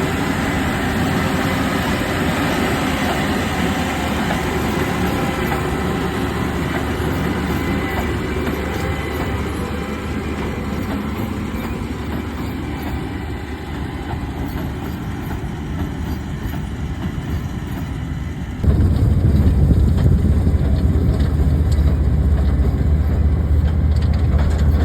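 Case IH LB436 HD large square baler working behind a Case IH Magnum tractor: steady engine and machinery running with a rattling clatter. About three-quarters of the way through, it switches abruptly to a louder, steady low drone, the tractor heard from inside its cab.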